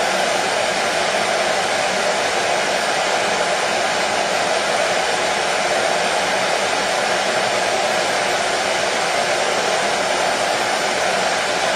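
Hair dryer running steadily: an even, unbroken whoosh of blown air and motor hum, used as white noise to soothe a colicky baby to sleep.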